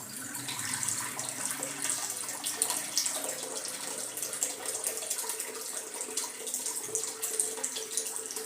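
Water running and pouring steadily into a container, measured out by the bowl for cooking rice.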